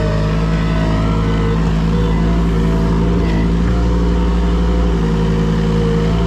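A motor engine running steadily at a constant speed.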